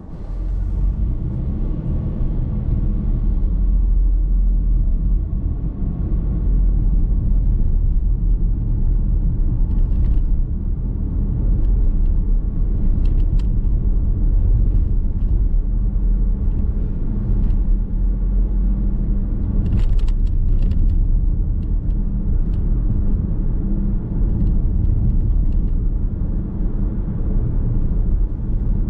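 Steady road and engine noise heard from inside a moving car's cabin: a continuous low rumble, with a few short clicks about a third and two-thirds of the way through.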